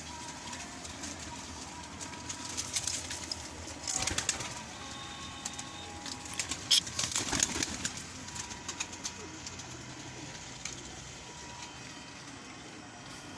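Domestic pigeons cooing, with scattered sharp clicks and rustles that are busiest about four and seven seconds in.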